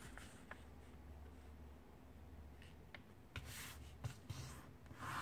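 Faint handling of a sheet of letter-size paper being folded in half and creased: a few soft ticks and a brief rustle about three and a half seconds in.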